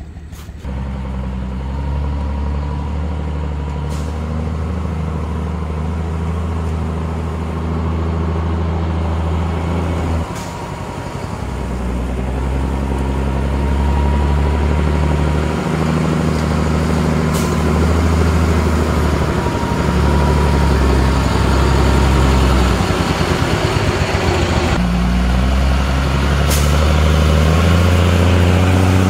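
Heavy truck engine running steadily under way. The engine note breaks and picks up again about ten seconds in and once more near the end, and it grows gradually louder.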